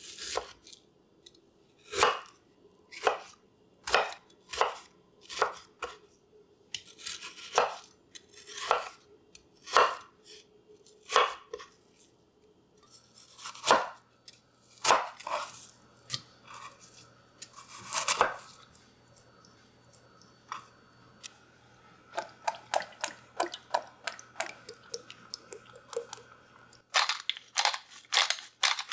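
Knife chopping on a cutting board: separate strokes about once a second, then quicker runs of strokes toward the end.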